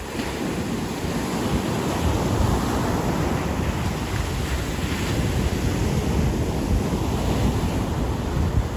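Ocean surf washing on a beach, a steady rushing wash that swells about a second in, with gusts of wind buffeting the microphone.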